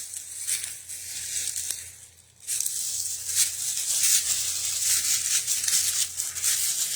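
Footsteps crunching through dry leaves and brush, a continuous crackling rustle that breaks off briefly about two seconds in and then resumes louder.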